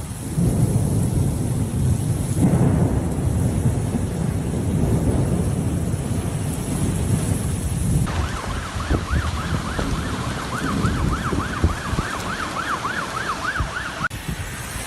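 Loud, deep storm rumble of wind and thunder. About eight seconds in it cuts to an emergency-vehicle siren wailing rapidly up and down, about three cycles a second, over storm noise. The siren cuts off abruptly near the end.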